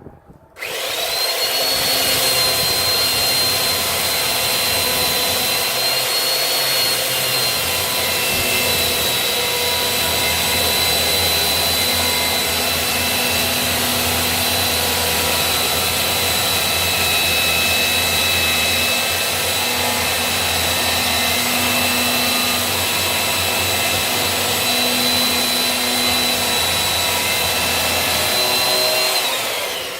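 Electric chainsaw switched on about half a second in, its motor running with a steady high whine for nearly half a minute, then winding down with a falling whine just before the end.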